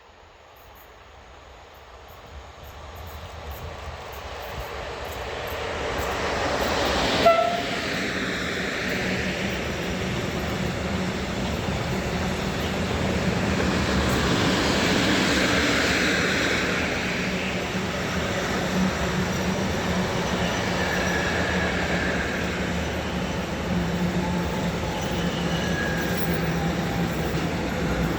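A train approaching and passing close by: its noise grows over several seconds to a sudden loudest moment about seven seconds in as the front goes past, then the wagons keep rolling by with steady wheel-on-rail running noise.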